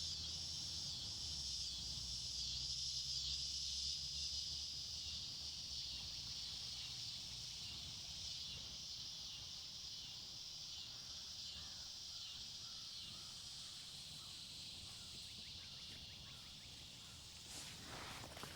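Quiet woodland ambience: a steady high insect drone, with a low wind rumble that fades over the first half and a brief rustle near the end.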